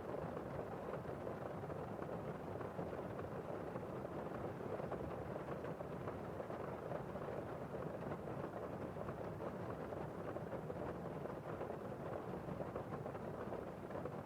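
Steady rainfall: an unbroken hiss of falling rain with a fine patter of drops, weighted toward the low and middle range rather than the highs.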